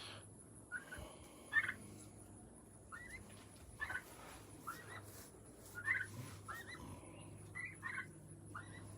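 A flock of Bourbon Red turkeys calling: about a dozen short, high calls at irregular intervals.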